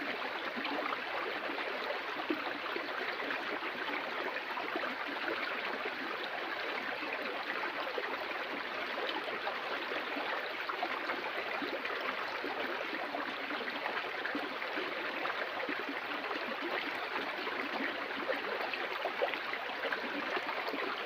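Water of a stream flowing and splashing over rocks, a steady rushing with fine bubbling.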